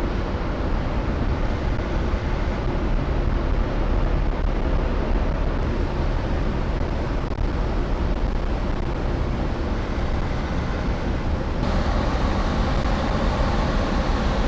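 Steady low rumble of a large car ferry's engines with a rushing hiss, changing abruptly twice.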